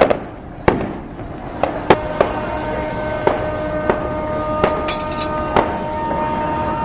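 Repeated sharp bangs of fireworks going off at irregular intervals, about one a second. From about two seconds in, boat hooters join with a steady, held chord of several tones under the bangs.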